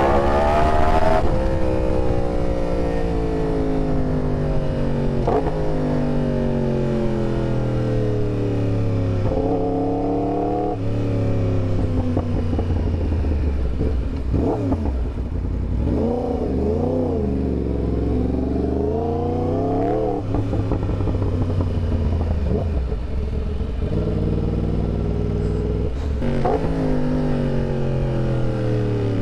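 Yamaha R1's crossplane inline-four engine running under way. Its pitch falls in steps over the first ten seconds as gears change, then rises and falls several times as the throttle is opened and closed, before settling into steadier running.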